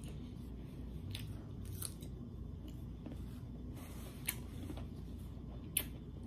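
Close-up eating sounds: a person chewing a mouthful of food, with a few short sharp clicks from the mouth, and a paper napkin rustling briefly about four seconds in.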